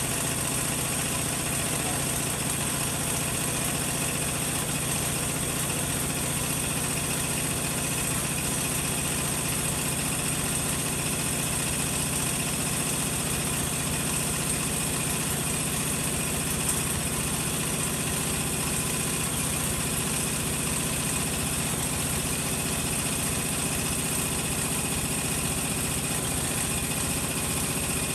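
Hoover Logic washing machine spinning steadily: an even motor hum with a high whine over it, holding unchanged throughout.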